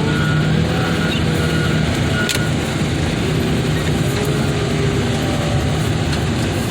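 Vehicle engine running steadily at a constant speed, with a single sharp click about two seconds in.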